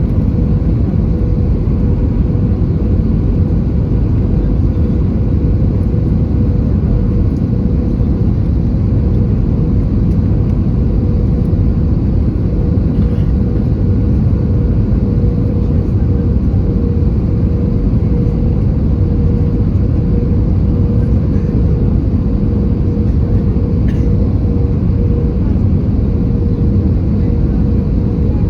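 Cabin noise of an Airbus A320-214 with CFM56 engines, heard from a window seat: a loud, steady low rumble with a constant mid-pitched hum running through it.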